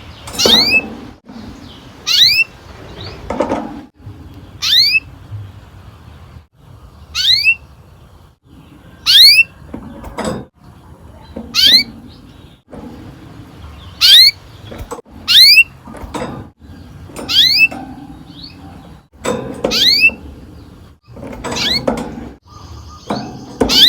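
Domestic canary giving repeated sharp, down-slurred chirps, about a dozen, spaced one every one to two seconds.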